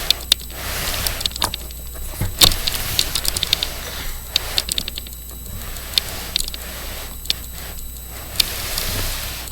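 Toy train set clicking and rattling on its track, with many irregular sharp clicks.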